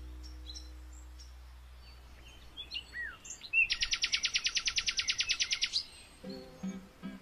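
Background music fades out, leaving birds chirping. One bird gives a loud, rapid trill of about a dozen notes a second for roughly two seconds. Music with a steady rhythm comes back in near the end.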